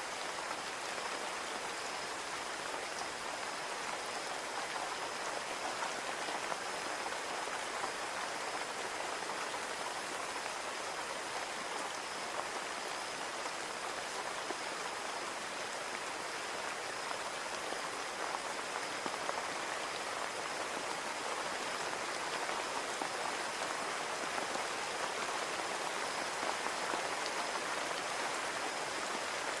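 Steady rain pattering on a window pane, with a constant faint high tone running through it.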